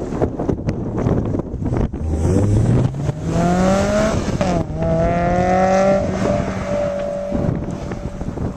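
A sports car's engine accelerating, its pitch climbing, dipping briefly about four and a half seconds in as it shifts up, then rising again and settling to a steady note that fades. Wind buffets the microphone for the first two seconds.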